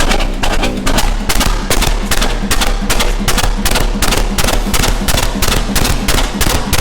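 Large restored stationary engine with a one-ton flywheel running steadily, its beats sharp and evenly spaced at about three to four a second over a low hum.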